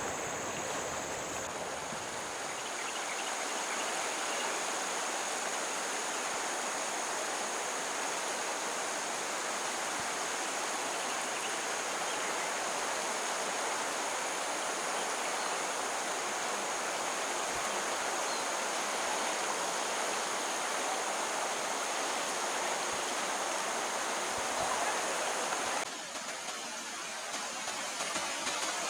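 Flowing stream water, a steady rush, that drops abruptly and turns quieter near the end.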